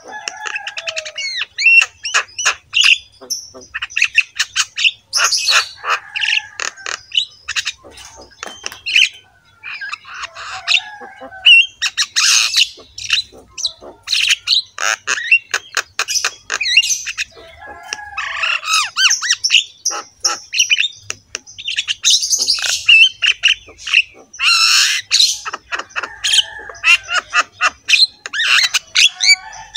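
Birds squawking: a dense run of short, harsh calls with a few gliding chirps among them.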